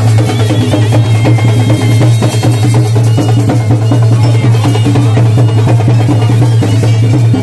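Loud traditional drumming: several drums and percussion beating a dense, driving rhythm over a steady low hum.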